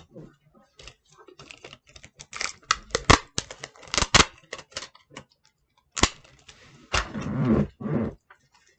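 Craft materials being handled and cut: a run of quick, sharp clicks and snips, then a fuller rustle near the end.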